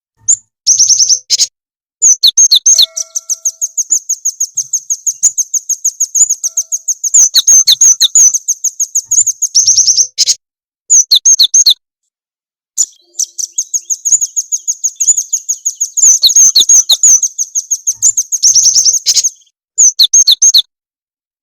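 Recorded songbird lure calls for cinereous tits and nuthatches: long runs of rapid, high, thin chirps, about ten a second, broken by short gaps, with lower dropping notes mixed in at the start of several runs.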